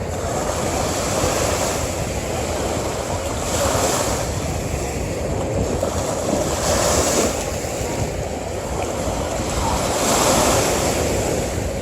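Ocean surf washing onto a beach in a steady rush, with a wave swelling up and easing off every few seconds.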